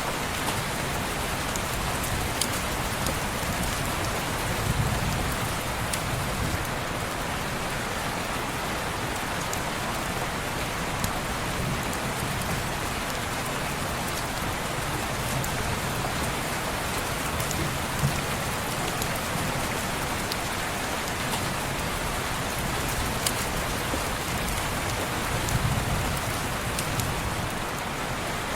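Steady rain on window glass, an even hiss with scattered sharp drop ticks. Low rumbles swell twice, about five seconds in and near the end.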